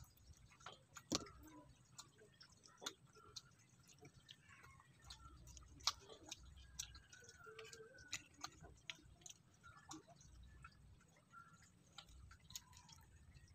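Faint mouth sounds of a person chewing soft boiled saba banana: irregular wet clicks and smacks, the loudest about a second in and again just before the middle.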